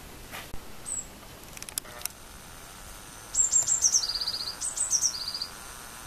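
A small songbird singing two short phrases, each a few high notes followed by a fast trill a little lower in pitch. A short high chirp comes about a second in, and a few brief clicks just before the song.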